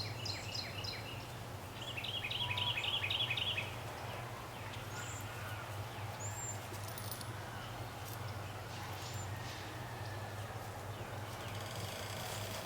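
Birds calling: a rapid run of chirps about two seconds in, the loudest part, then a few scattered short calls, over a steady low hum.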